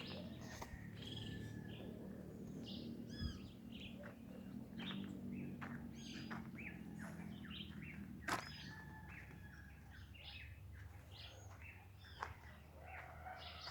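Several birds chirping and calling in short, varied notes over a faint low rumble, with one sharp click about eight seconds in.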